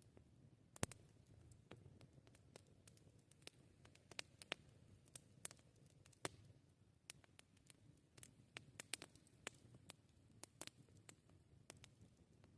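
Wood campfire crackling: irregular sharp pops and snaps, the loudest a little under a second in, over a faint low rumble.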